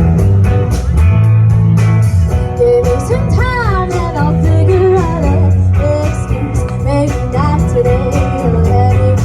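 Live band playing a song: guitar and a sustained bass line over a steady drum beat, with a sung melody that glides and wavers in pitch.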